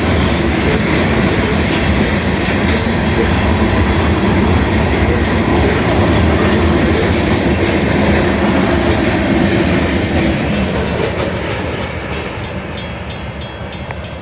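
Union Pacific manifest freight train's cars rolling past with a steady low rumble and wheels clicking over the rail joints. The sound fades over the last few seconds as the end of the train goes by.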